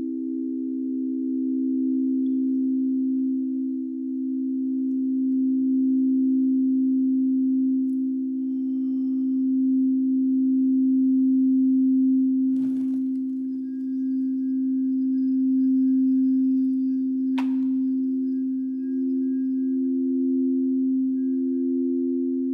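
Singing bowls sounding several steady, sustained low tones that waver slowly. About 13 s in and again about 17 s in, a struck sound adds fainter high ringing tones above them.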